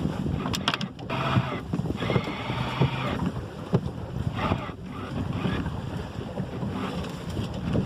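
Wind buffeting the microphone over water rushing along the hull of a 25 ft Maxi 777 sailboat under way, with a few sharp knocks about half a second in.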